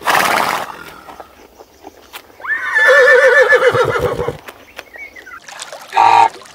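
A horse whinnies once, a loud wavering call about two and a half seconds in that lasts nearly two seconds. It follows a short breathy burst at the start. Near the end a Canada goose honks once.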